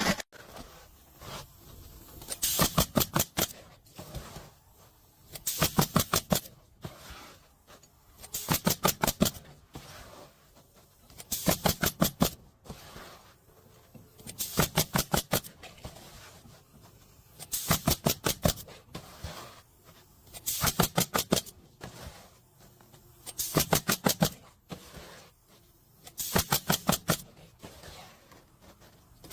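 Bursts of rapid, evenly spaced mechanical strikes, each about a second long, repeating roughly every three seconds.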